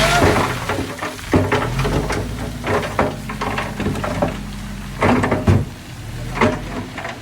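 A vehicle engine running low and steady, with irregular loud knocks and clatters over it, like a vehicle jolting and rattling over rough ground.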